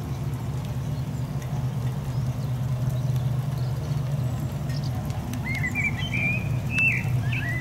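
First light rain falling on a garden patio, with a steady low hum underneath. A small songbird chirps in short phrases during the last two seconds.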